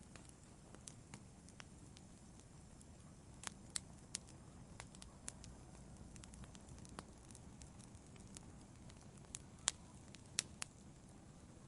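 Wood fire crackling in a fireplace: a soft steady low rumble of the flames with irregular sharp pops and snaps, a few louder ones near the middle and toward the end.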